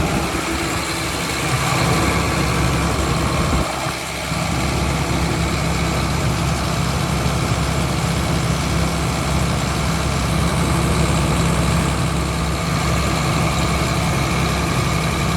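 Combine harvester running steadily, its engine and belt-driven drives turning, in a test run to check that a newly fitted belt tensioner keeps the belts tight. The sound dips briefly about four seconds in.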